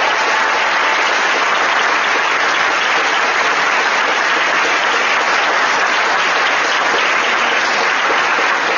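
Large audience applauding steadily, a sustained dense clapping.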